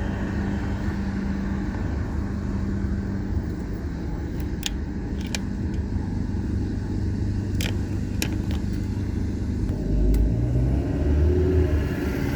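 A car driving slowly through town, heard from inside the cabin: a steady low engine and road rumble with a few scattered clicks. The rumble grows louder about ten seconds in.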